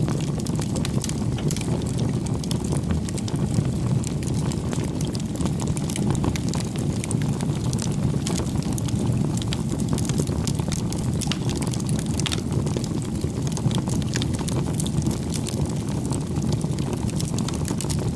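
Wood fire crackling, with frequent small irregular pops and snaps over a steady low rumble of burning.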